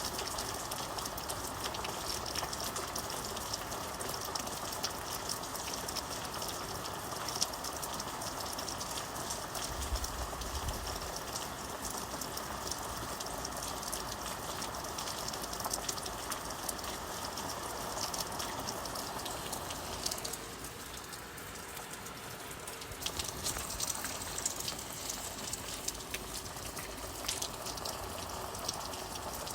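Steady rainfall, a continuous wash with many small drop ticks. About twenty seconds in the fuller part of the wash thins and quietens for a few seconds, then builds back up.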